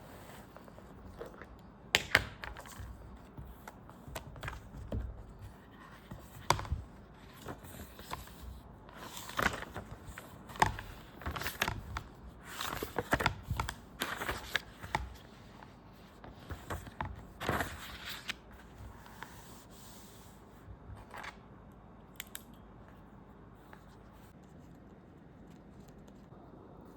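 Irregular clicks, taps and short scraping rustles of small objects being handled, busiest in the first twenty seconds and then giving way to quiet room tone.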